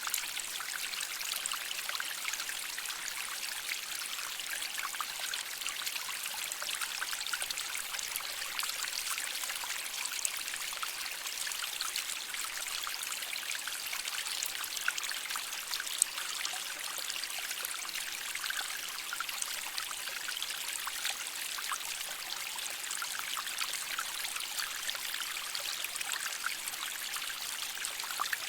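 A shallow stream of water flowing and trickling over rocks: a steady, bright splashing hiss with fine babbling detail.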